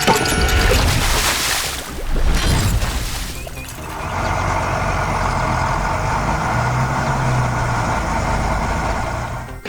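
Vehicle sound effects: two bursts of hissing in the first few seconds, then a steady engine rumble.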